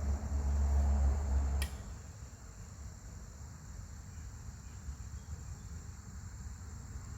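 Steady high insect trill, one even tone over a faint hiss. A low rumble fills the first second and a half and ends with a single sharp click.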